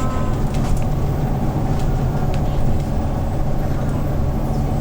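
The compressed-natural-gas engine of a 2013 Hyundai New Super Aero City city bus, running steadily as the bus drives. It makes a continuous low drone, with a few faint clicks.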